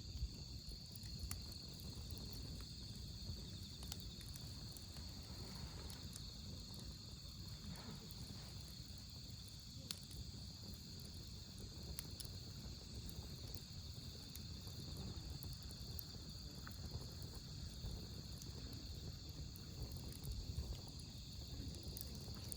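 Wood fire burning with scattered sharp crackles and pops, over a steady chorus of autumn crickets chirping.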